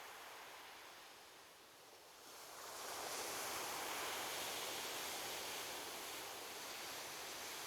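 Ocean surf on a beach: the wash dips about a second and a half in, then a wave breaks and its rushing wash swells up from about two and a half seconds and holds.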